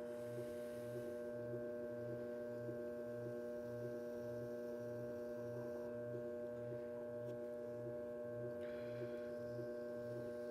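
Electric potter's wheel motor running steadily: a constant hum of several tones with a low throb pulsing about three to four times a second.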